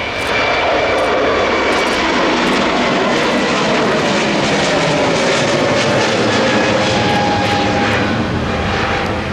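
Airliner's engines passing close by in a loud, steady roar that swells just after the start and eases off near the end, with a faint tone slowly falling in pitch.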